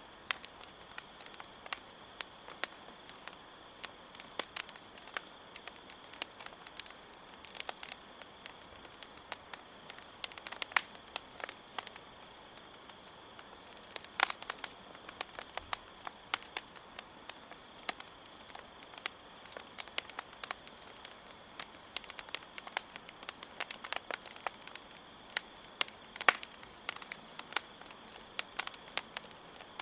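Wood campfire crackling with frequent irregular sharp pops, a few louder ones among them, over a steady high trill of crickets.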